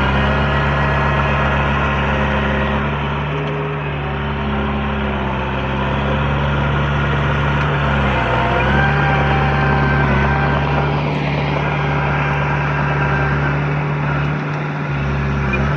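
Heavy diesel engine of earthmoving machinery running steadily under work, its pitch dipping briefly about eight seconds in.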